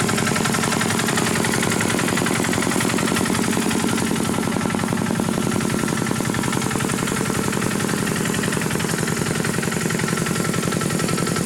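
Single-cylinder diesel engine of a Khmer farm tractor running steadily, with a rapid, even chugging beat.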